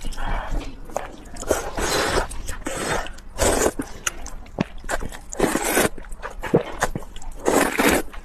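Slurping and chewing of hot-and-sour noodles (suanla fen), in repeated noisy slurps of about half a second to a second with small wet clicks of chewing between them.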